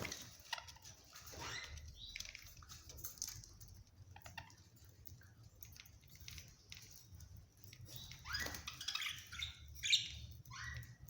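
Cage birds calling in short chirps and quick rising calls, the loudest just before the end.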